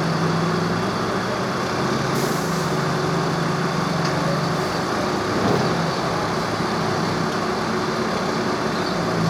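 A large engine running steadily: a constant low hum with a rush of mechanical noise over it.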